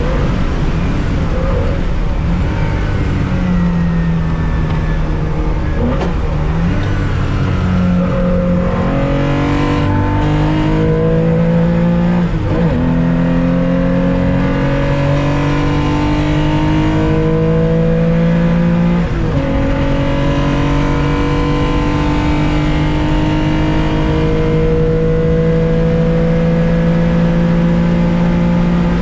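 A 1965 Porsche 911's 2.0-litre air-cooled flat-six, heard from inside the cabin, pulling hard through the gears. Its pitch climbs steadily, then drops at three upshifts spaced roughly six seconds apart. After the last shift it climbs for a long final pull.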